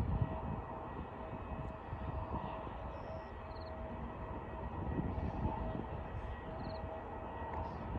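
Airbus A321neo jet airliner's engines running, heard as a steady low rumble with a faint steady whine.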